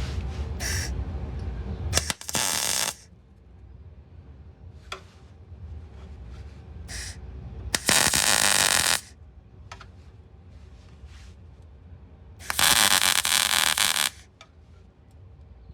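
Welder laying three short tack welds on car body steel, each a crackling burst of about a second, near the start, in the middle and near the end. A low hum fills the first two seconds and then stops.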